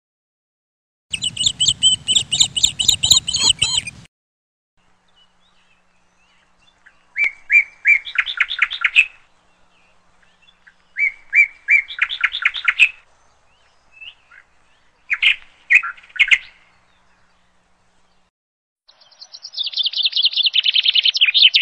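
Songbird singing: five phrases of quick, high chirps and trills a few seconds apart, the last a fast trill that falls in pitch. A low rumble lies under the first phrase.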